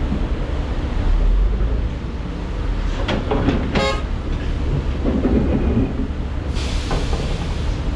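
Heavy diesel construction machinery running with a steady low rumble. There is a short rattling clatter about three to four seconds in, and a burst of hiss near the end.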